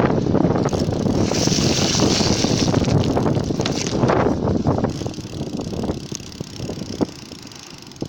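Bicycle ride heard from a camera mounted by the rear wheel: wind buffeting the microphone over tyre rumble and rattling from the frame. It gets quieter from about five seconds in.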